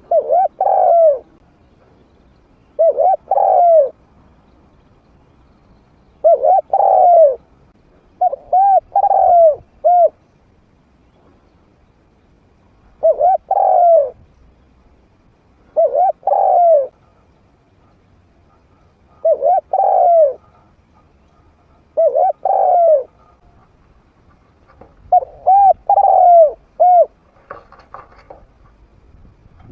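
A spotted dove cooing in a medium-pitched voice. It gives a series of short phrases of two or three looping coo notes each, repeated every few seconds.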